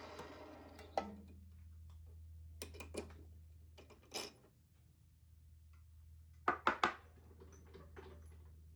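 Jet 1221 VS wood lathe winding down after drilling out a pen blank, its whine fading over the first second, with a low steady hum underneath. Then scattered sharp clicks and knocks, the loudest a quick cluster about six and a half seconds in.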